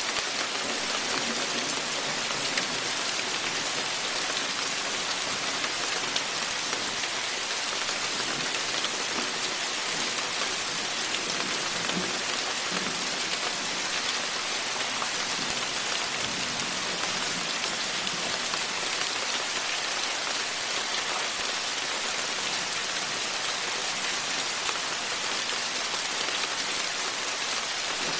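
Rain falling steadily, an even hiss of drops that neither builds nor eases.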